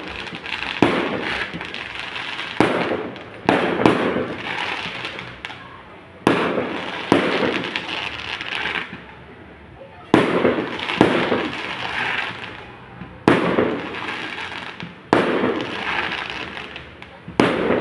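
Fireworks going off: about a dozen sharp bangs a second or a few seconds apart, each followed by a crackling hiss that fades over a second or two.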